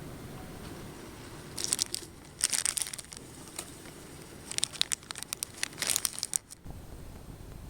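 Crinkling and crackling, like packaging being handled, in three bursts: a short one about one and a half seconds in, another about a second later, and a longer stretch from about four and a half to six and a half seconds.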